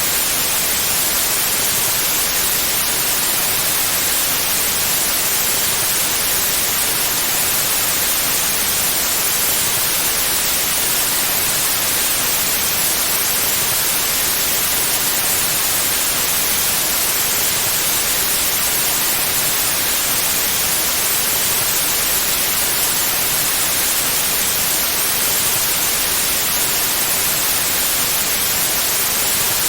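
Pure white noise: a steady, even hiss with no changes, brightest in the high frequencies.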